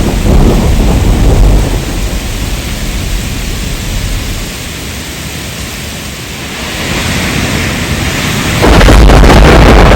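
Heavy rain with thunder. A low rumble of thunder dies away over the first two seconds and the rain goes on more quietly. Near the end a loud, crackling thunderclap breaks in suddenly and keeps rumbling.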